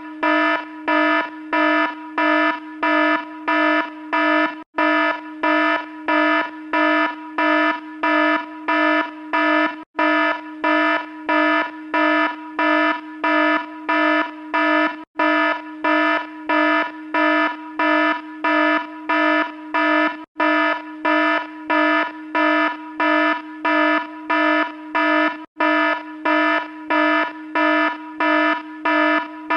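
Alarm sound effect: a harsh, buzzing electronic beep repeating about twice a second. It loops with a brief break every five seconds or so.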